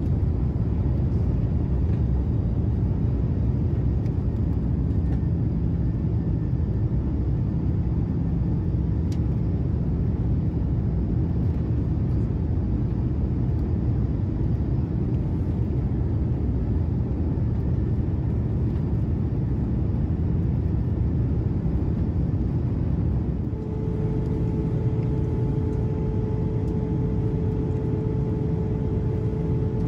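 Steady low rumble of cabin noise aboard an Airbus A330-200 airliner. Near the end a single steady held tone comes in over it.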